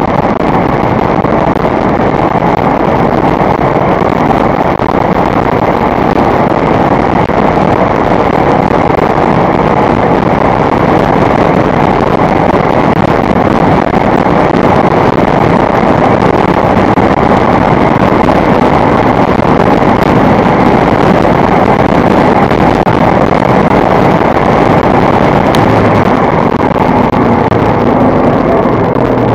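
Audi RS3 Sportback driven at high speed, its 2.5-litre five-cylinder engine running under heavy wind and road noise. The sound is loud and steady.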